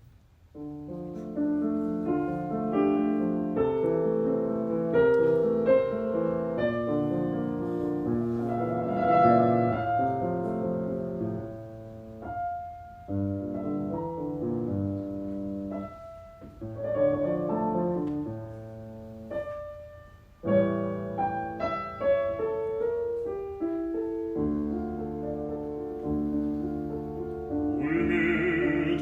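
Piano playing the introduction of a classical art song as background music, with a singing voice coming in near the end.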